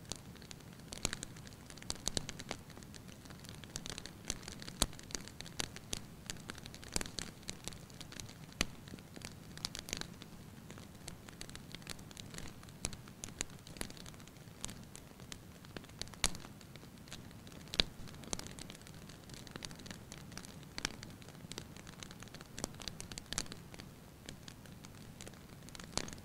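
Wood fire in a fireplace crackling, with irregular sharp pops and snaps over a steady low hiss of burning.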